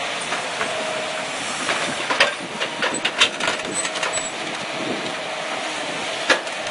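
Excavator working a tree stump with a stump shear: a steady engine and hydraulic hiss with a faint whine, broken by a few sharp cracks and knocks of wood and metal.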